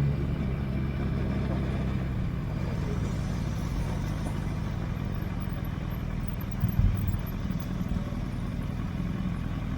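Motorcycle engine running steadily under road and wind noise, with a brief louder bump about seven seconds in.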